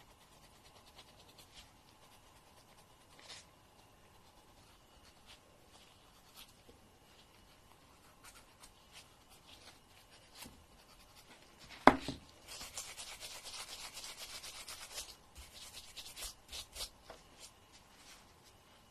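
A fingernail being filed, with fast rasping scrapes. Faint scattered clicks come first, then a single sharp tap about twelve seconds in. Then comes about two and a half seconds of steady rapid filing, and a few shorter strokes after it.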